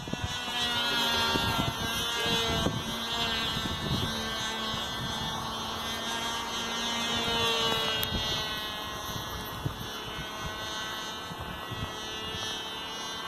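Cox .049 two-stroke glow engine on a balsa model plane running steadily at high revs, a buzzy whine whose pitch wavers slightly up and down.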